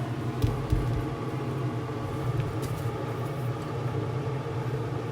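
A steady low hum, like a motor or fan, with a couple of light knocks about half a second in.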